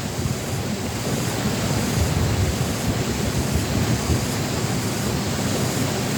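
Wind buffeting the microphone outdoors: a steady, uneven low rumble with a hiss over it.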